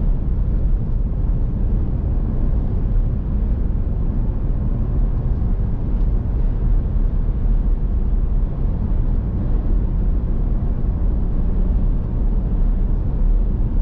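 Steady low road and engine noise heard from inside a moving car's cabin, an even rumble with no changes.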